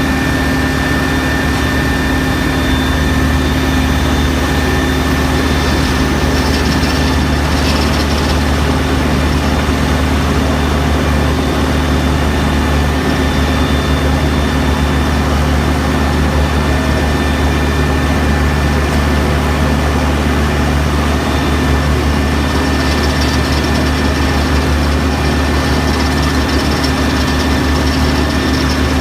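A diesel engine running steadily at a constant speed, a low even drone with a thin steady whine above it.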